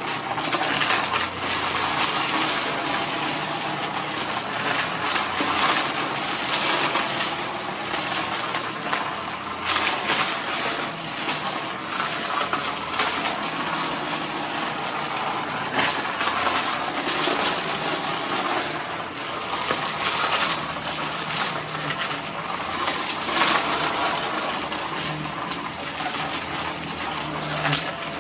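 Vacuum cleaner running steadily while picking up a mess of loose debris, with a continuous crackle and rattle of bits being sucked up.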